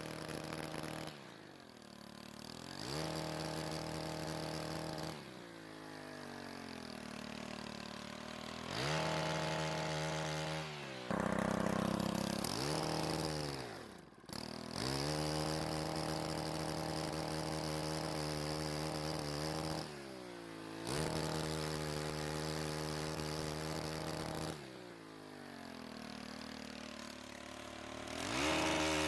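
Pole chainsaw running, its engine climbing to a high, steady pitch and falling back several times as the throttle is opened and released.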